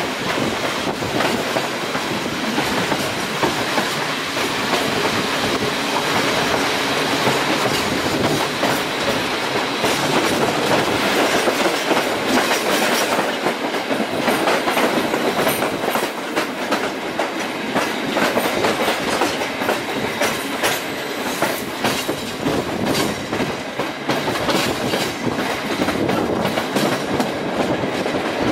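Passenger train rolling through station points and crossings, its wheels clicking steadily over rail joints and switch frogs. The sound is heard from the carriage window. About halfway through, another train runs past alongside.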